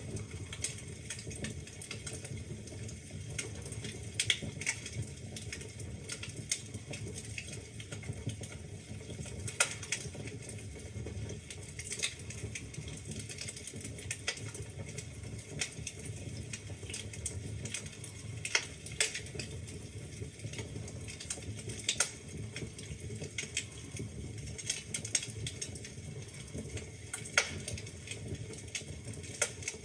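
Wood fire burning in a fireplace, logs crackling with irregular sharp pops and snaps over a low steady rumble of the flames.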